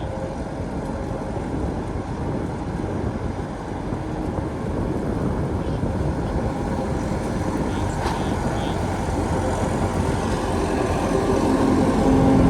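An engine running steadily, growing louder near the end.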